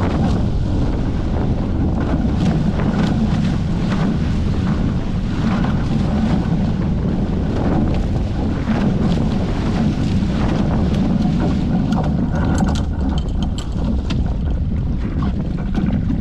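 Wind buffeting the microphone over water rushing along the hulls of a Hobie 14 catamaran under sail, with scattered short, sharp noises throughout.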